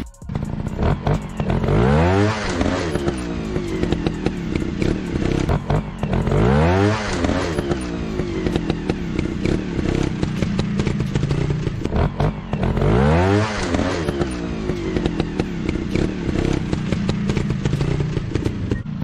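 Dirt bike engine running and revving hard, its pitch climbing sharply three times about five to six seconds apart, with rattling clatter throughout.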